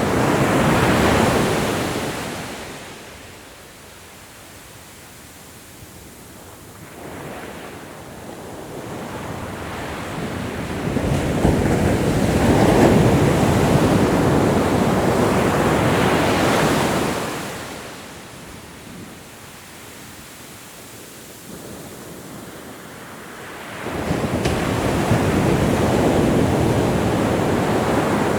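Ocean waves breaking and washing up the shore. There are two long surges, each swelling over several seconds and dying away into a quieter lull, and a third wave breaks near the end.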